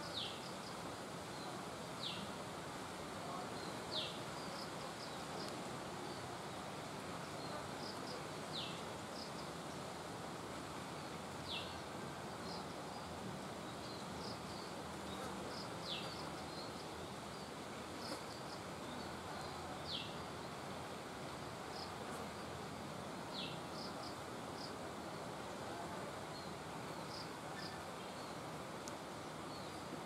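Background birdsong: a thin whistled note sliding downward, repeated every two to four seconds, with short high chirps in between, over a steady hiss of outdoor ambience.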